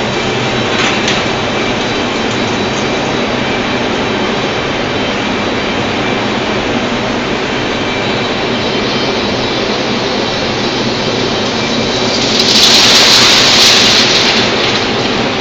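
Loud, steady running noise of industrial plant at an induction furnace fitted with side-draft fume extraction. About twelve seconds in, a louder hiss swells for a couple of seconds and then fades back into the steady noise.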